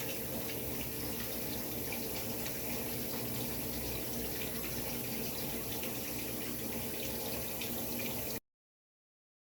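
Airbus A320 jet engines heard as a steady rushing noise with a faint low hum. The sound cuts off abruptly about eight seconds in.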